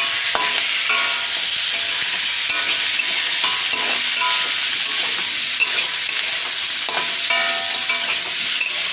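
Vegetables with ginger and cumin paste frying in hot oil in a kadai, sizzling steadily, while being stirred with scattered clicks and scrapes of the spatula against the pan.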